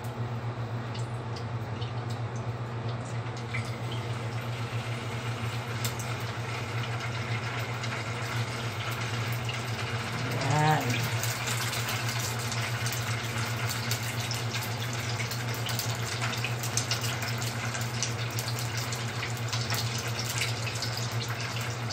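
Longganisa sausages frying in oil in a pan: a steady sizzle that gets busier and more crackly from about ten seconds in as more sausages go in, over a steady low hum.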